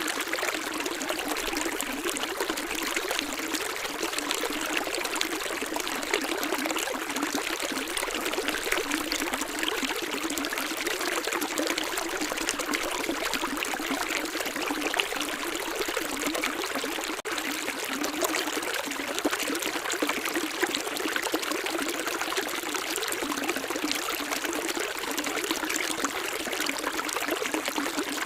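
Running water splashing steadily and without a break, light rather than deep, with no low rumble.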